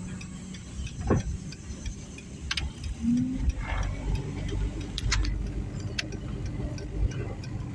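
Dodge Neon's engine idling with a steady low rumble, with sharp clicks now and then.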